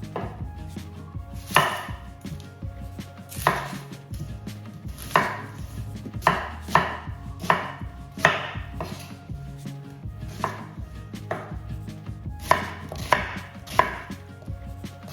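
Knife chopping vegetables on a cutting board: sharp, irregular cuts, roughly one a second, some coming in quick runs of two or three.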